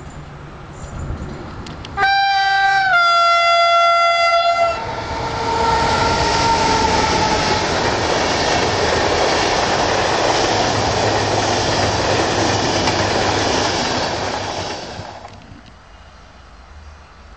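Electric locomotive's horn sounding for about three seconds, its pitch stepping slightly lower partway through. Then comes the loud rolling rumble and clatter of its passenger coaches passing close, which fades near the end.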